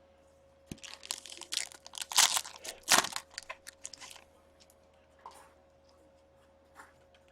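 Foil wrapper of a hockey card pack crinkling and tearing as it is ripped open: a run of crackling lasting about three seconds, loudest a little after two seconds in, then a few light rustles.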